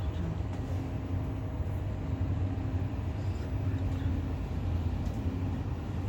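Tram running along the track: a steady low rumble of wheels on rail with a faint steady electric motor hum.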